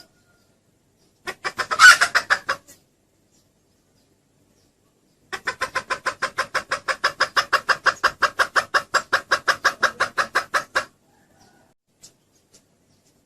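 Junglefowl hen clucking: a short quick run of clucks, then after a pause a longer even series of rapid clucks at about seven a second that stops abruptly.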